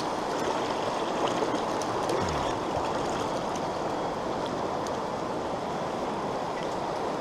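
Steady rush of a small brook's running water, an even noise with no letup.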